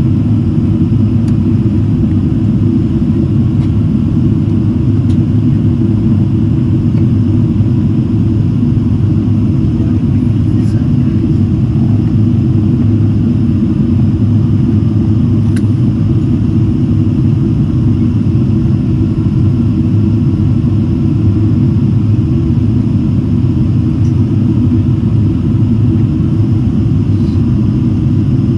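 Steady, loud low rumble of an airliner in flight, heard from inside the passenger cabin: engine and airflow noise.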